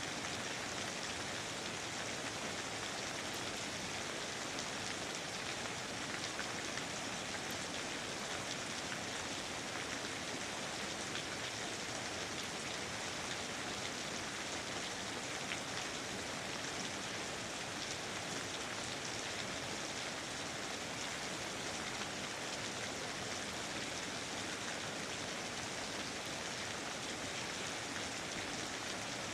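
Steady rain falling, an even hiss with fine patter of individual drops.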